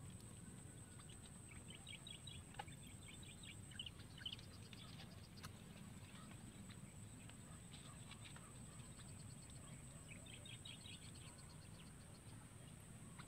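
Faint, almost silent background with a steady low rumble and a thin high whine. Birds call faintly in two short bursts of rapid chattering notes, about two seconds in and again near ten seconds.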